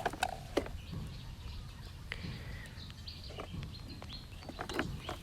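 Faint background noise with scattered light clicks and a few brief high chirps.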